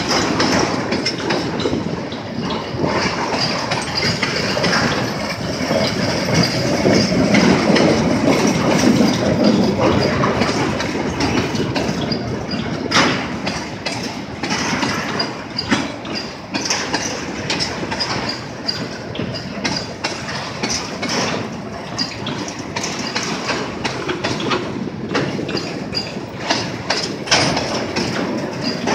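Empty freight train of grain hopper cars and boxcars rolling past close by. A steady rumble of the wagons runs under repeated clacks of the wheels over the rail joints, loudest a few seconds in.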